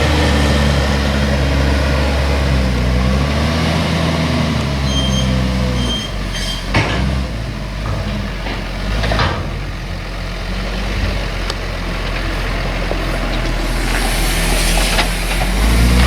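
Heavy diesel machinery of a maize harvest running: a tractor or forage harvester engine is loud at first, drops back after about six seconds, and builds again near the end, with a few clanks in between.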